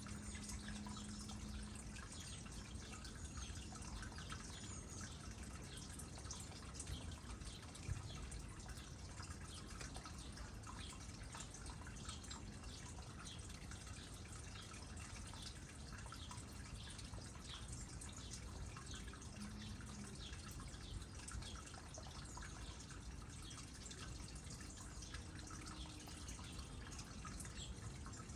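Small pond with water trickling and dripping steadily in many small scattered drops. One sharper tap comes about eight seconds in.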